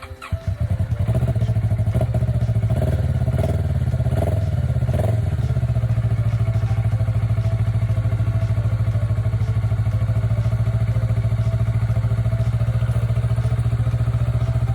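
Kawasaki Ninja 400R parallel-twin engine catching on its first start after three months unused, running unevenly with several brief surges for the first five seconds or so, then settling into a steady idle. The battery still had enough charge to start it.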